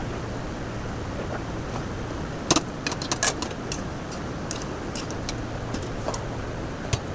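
A steady low rumble with a cluster of sharp metallic clinks about two and a half seconds in and a few single clinks later, like a metal spoon knocking on a cooking pot.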